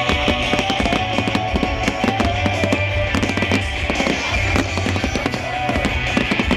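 Music playing over dense, rapid crackling and popping from fireworks.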